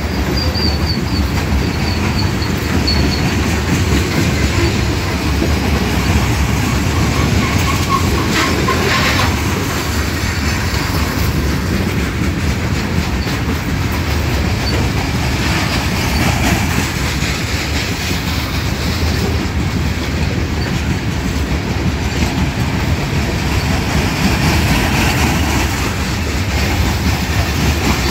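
Freight train of coal hopper cars rolling past: a steady rumble with clickety-clack of the wheels. Brief high wheel squeals come in the first few seconds and again about eight seconds in.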